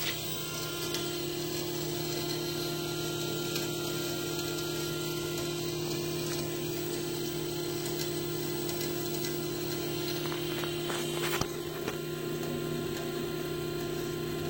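A motor or machine running with a steady hum, with a few sharp clicks about eleven seconds in.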